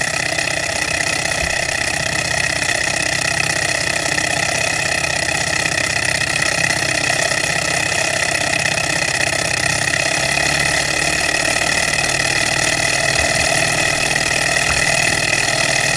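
Small alcohol-fired Stirling hot-air engine running steadily, turning its generator to power a plugged-in light, a continuous fast mechanical whir with a few steady tones through it.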